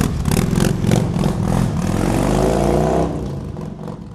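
A motor vehicle engine running and revving, its pitch rising about two seconds in, then fading away from about three seconds in.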